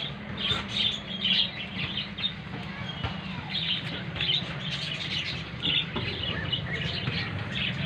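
Small birds chirping over and over in quick short notes, over a steady low hum.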